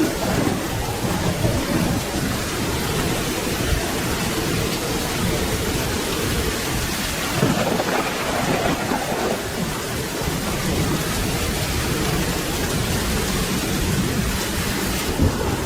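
Steady rain with low thunder rumbling underneath, swelling briefly about halfway through.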